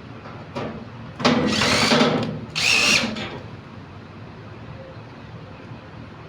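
A handheld power tool, drill-like, running in two short bursts: about a second, then a brief pause, then about half a second.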